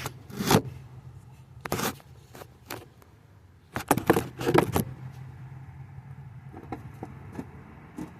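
Handling noise from a camera being set up: a few sharp knocks and scrapes, with a cluster about four seconds in, over a steady low hum.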